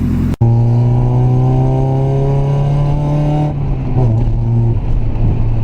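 Mazda Miata's four-cylinder engine pulling through its new aftermarket exhaust (resonated test pipe, 6-inch muffler): the note climbs slowly as the car accelerates, then about three and a half seconds in it eases off and settles to a steady, deep drone.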